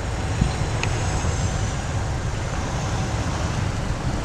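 Boeing 737's jet engines passing on landing: a steady rush of engine noise with a faint high whine that falls slightly in pitch, over a low rumble.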